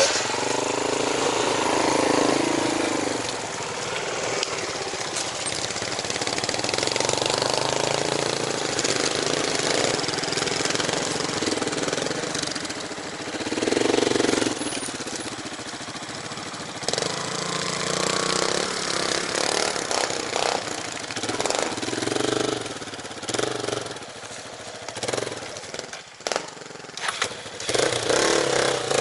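Motorcycle engine running while riding, the revs rising and falling again and again, over a steady rush of wind and road noise.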